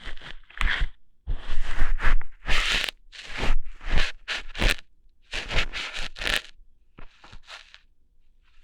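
Simulated ear-hair plucking for ASMR: crunchy tearing and scraping right at a microphone in a run of short irregular bursts with brief gaps, fading to a few fainter ones near the end.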